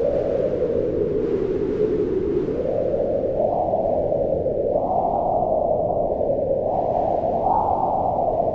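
Howling wind, a continuous rushing moan that swells and eases several times, its pitch rising with each gust.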